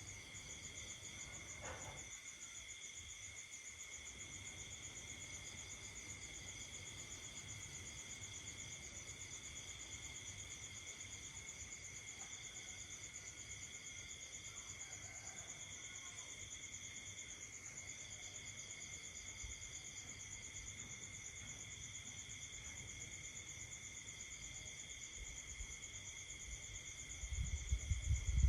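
Night chorus of crickets and other insects with frogs, several steady high-pitched trills overlapping without a break, one of them finely pulsing. Near the end a louder low rumble comes in.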